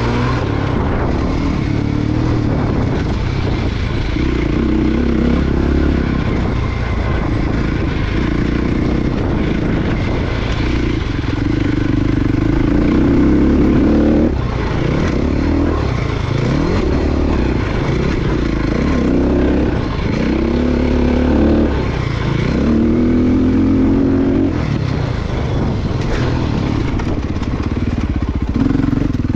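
Motocross dirt bike engine revving hard and easing off lap after lap. Its pitch climbs, then drops back, every few seconds.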